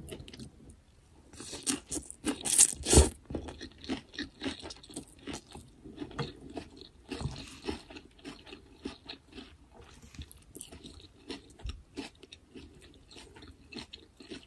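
A person chewing and crunching food close to the microphone, with a louder run of crunches about two to three seconds in.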